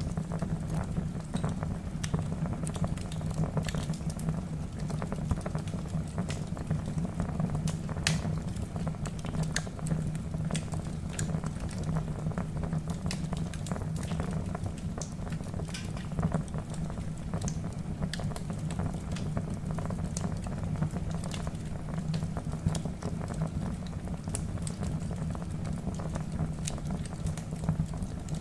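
Wood fire burning in a fireplace: a steady low rush of flame with frequent irregular crackles and pops from the burning logs.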